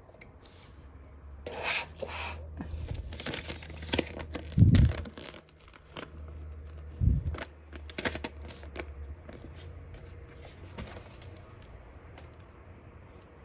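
Crinkling, scraping handling noise with two dull thumps, the first about halfway through, over a steady low hum that stops a little past the middle.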